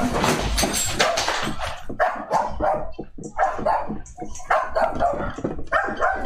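A dog barking over and over, about two barks a second, after a couple of seconds of loud, even noise.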